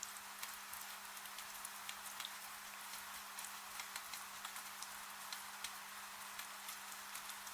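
Steady rain falling, a soft hiss with scattered, irregular drip ticks, over a faint steady low hum.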